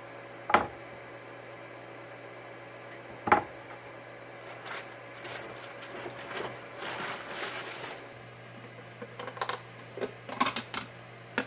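Kitchen cooking sounds: two sharp knocks about three seconds apart, a few seconds of scraping in the middle, then a quick run of light clicks and taps of utensils near the end, over a steady low hum.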